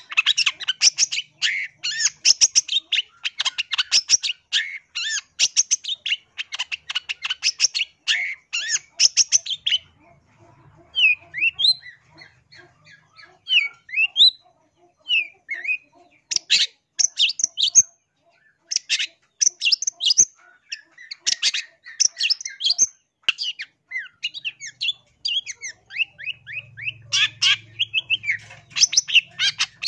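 Long-tailed shrike (cendet) singing in rapid, harsh chattering phrases. Around the middle the song thins briefly into a few short rising whistled notes, then the chatter resumes.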